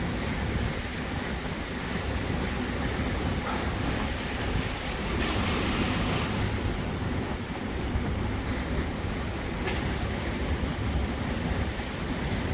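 Small boat under way on the water: water rushing and splashing along the hull over a low steady rumble, with wind buffeting the microphone. A louder hissing splash rises about five seconds in and falls away after a second or so.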